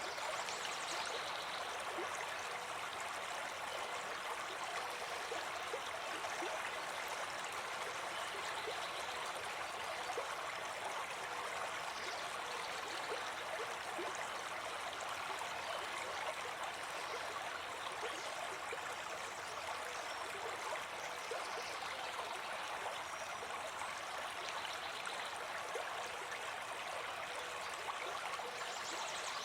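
A brook babbling and gurgling steadily over stones, an even, continuous rush of running water.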